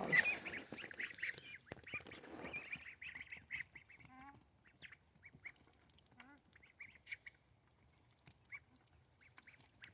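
Poultry calling: a dense run of short, high calls that thins out after about four seconds to scattered single calls.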